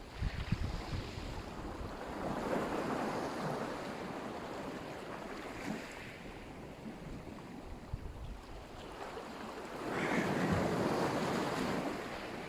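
Black Sea surf: waves breaking and washing in, swelling louder about two seconds in and again near the end. Wind rumbles on the microphone at the start.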